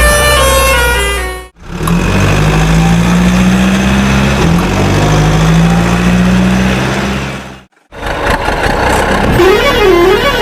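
Cartoon vehicle sound effects in three short pieces with brief cuts between them. A quick run of stepped musical tones comes first, then a heavy truck engine running with its pitch slowly rising as if straining, then a fast-warbling siren-like tone.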